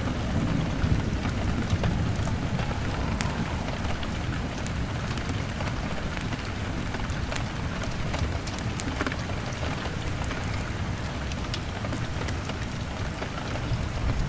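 Rain hammering on a window pane: a steady hiss of rain over a low rumble, with scattered small sharp crackles.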